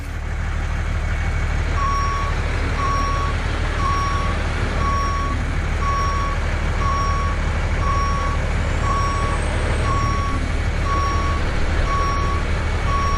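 Truck reversing with its reversing alarm beeping about once a second over a steady engine drone. The beeping starts about two seconds in.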